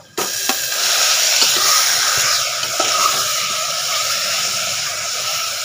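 Marinated chicken hitting hot oil and fried onions in an aluminium pressure cooker: a loud sizzle that starts suddenly just after the start and keeps up steadily while the pieces are stirred, with a few light knocks.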